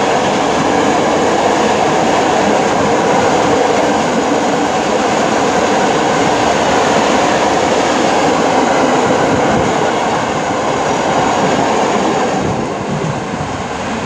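Freight train of open hopper wagons rolling past at speed close by: a loud, steady rolling noise of wheels on rail that drops away near the end as the last wagon goes by.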